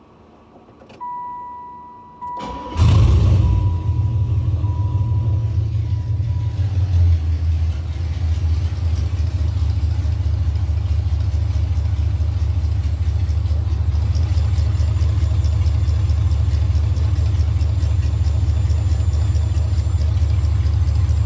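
5.3-litre LS V8 fires up almost at once and settles into a steady idle, with a brief rev about seven seconds in; two electronic beeps sound just before it catches. The start marks a no-start problem now cured.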